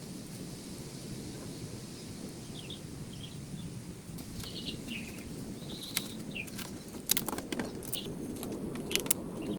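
Forest ambience: a steady low rushing noise with a few short bird chirps in the middle, and a scatter of sharp clicks or snaps in the second half.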